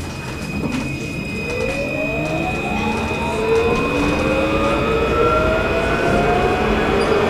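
Alstom Citadis 202 tram pulling away from a stop, heard from inside: the electric traction drive gives a whine of several tones that rises steadily in pitch as the tram gathers speed, over a rumble that grows louder.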